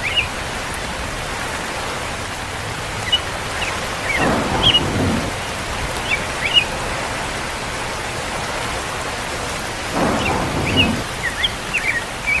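Steady rain with low rolls of thunder, one about four seconds in and another near ten seconds.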